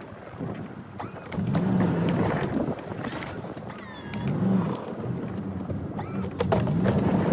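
Plow truck engine revving up and down several times while pushing snow, with a few sharp clicks.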